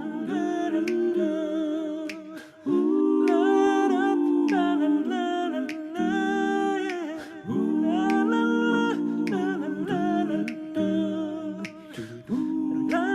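Background music: layered, wordless a cappella humming voices holding and gliding between notes, over a beat of sharp snaps or clicks.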